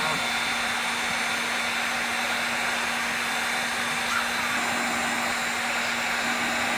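An electric motor-driven tool or blower starts abruptly and runs steadily, with an even rush of air and a constant hum.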